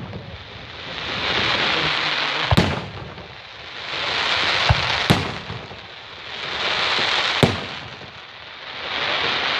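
Aerial fireworks bursting in a regular series: three sharp bangs about two and a half seconds apart. Each is followed by a crackling hiss from the glittering stars that swells and fades over about two seconds.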